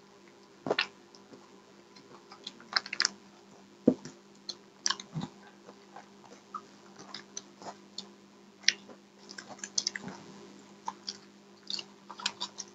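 Close-miked chewing and biting of fried food, with irregular sharp clicks and crackles scattered through. A faint steady hum lies underneath.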